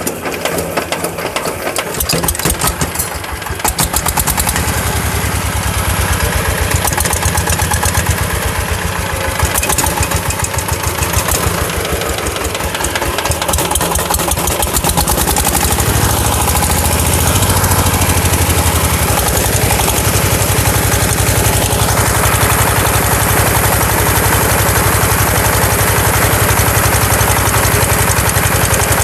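Reconditioned Sifang 20 hp single-cylinder diesel engine running with a fast, even beat of firing strokes. It picks up and grows louder over the first few seconds, then runs steadily.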